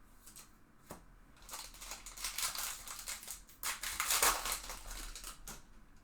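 Foil wrapper of a Topps Chrome trading-card pack crinkling as it is torn open and handled: a few seconds of rustling, crackling bursts, loudest about four seconds in.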